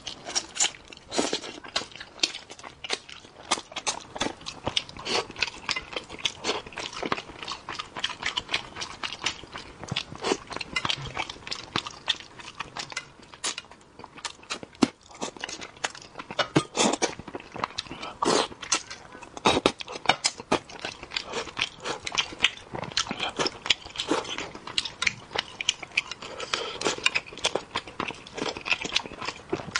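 Close-miked chewing of spicy braised fish, with many quick, irregular mouth clicks and smacks throughout.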